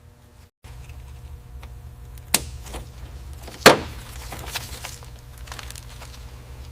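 Two sharp knocks, the second the louder, and a few lighter clicks over a steady low hum.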